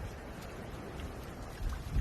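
Steady, low rumbling noise of sea water and wind at the shore.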